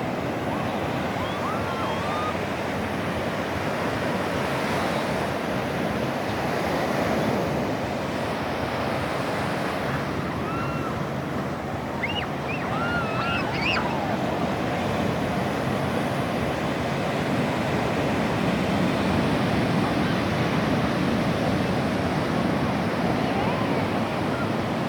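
Sea waves washing onto the shore: a steady rushing surf that swells gently. A few faint, brief high-pitched squeaks come through about ten to fourteen seconds in.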